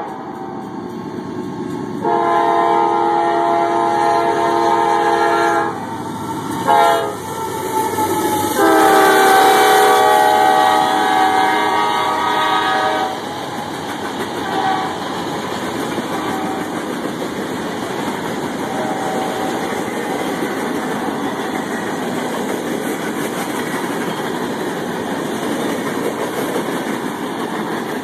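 CSX freight train's diesel locomotive air horn sounding a chord of several notes for a crossing: a long blast, a short one, then another long one. After the horn stops, about halfway through, the train rolls past with a steady rumble of engines and freight-car wheels on the rails.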